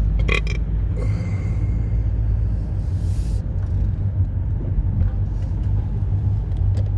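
A 2005 Ford Mustang GT's 4.6-litre V8 engine and exhaust drone steadily, heard from inside the cabin while driving at a steady pace. A few brief clicks come just after the start, and two short hisses follow.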